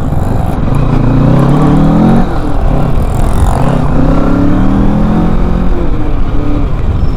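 Kawasaki Ninja 650's parallel-twin engine accelerating hard through the gears, its pitch rising steeply and dropping back at each upshift, about three times.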